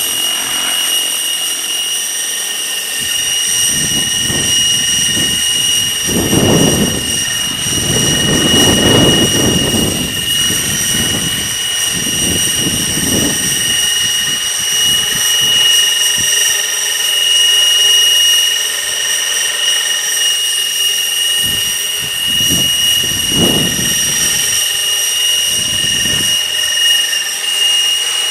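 Outrage Fusion 50 RC helicopter flying: a steady high whine from its motor and rotors. Gusts of heavy wind buffet the microphone with low rumbles, strongest in the first half.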